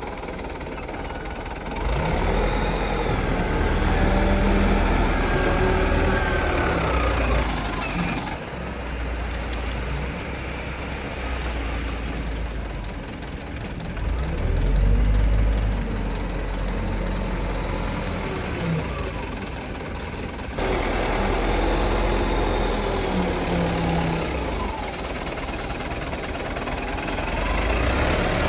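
Heavy diesel engines of a Cat wheel loader and a dump truck running while gravel is loaded, the loader's engine revving up and down as it works.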